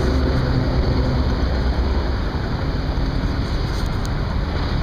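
Steady rushing street noise with a deep rumble.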